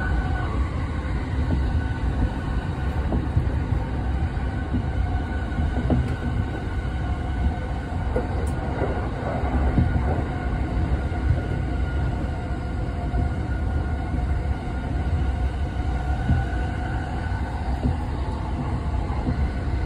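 JR Yokosuka Line electric commuter train heard from inside the carriage while running: a steady rumble of wheels on rails, with a faint steady whine above it.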